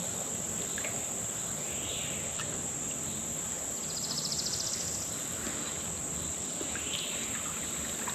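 Steady high-pitched chorus of summer insects, with a brief rapid pulsing trill about four seconds in.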